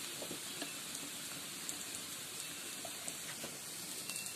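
Sliced onions frying in hot oil in a wok: a steady sizzle with a few faint small pops.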